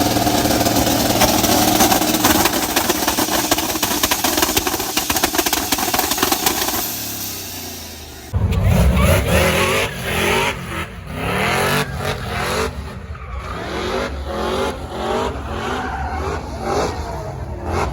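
Car engines held on a two-step launch limiter, a loud dense crackle of rapid pops that fades away about eight seconds in. Then an abrupt change to engines revving up and down in short surges.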